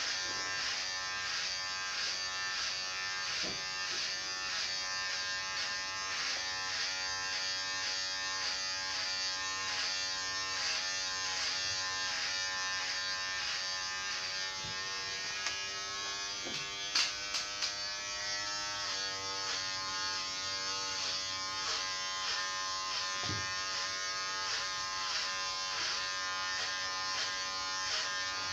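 Electric hair clippers running with a steady buzz, the pitch shifting slightly as they work, with a few sharp clicks a little past the middle.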